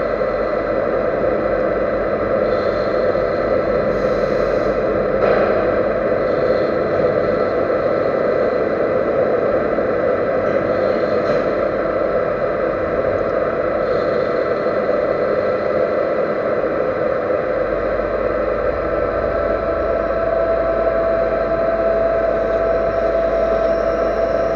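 Lathe running steadily: a continuous machine noise with several steady whining tones, and a low hum that joins about two-thirds of the way through.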